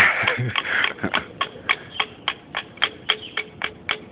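Steady, rapid tapping on a socket of freshly poured molten metal, about four strikes a second, each with a short ring: the metal is being beaten to work air bubbles up to the top before it sets.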